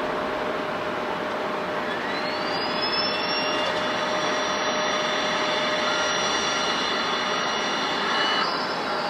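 Jet engines of an Airbus A350, its Rolls-Royce Trent XWB turbofans, over a steady rush of engine noise. About two seconds in, a whine rises sharply in pitch as the engines spool up, then holds steady. The whine changes abruptly near the end.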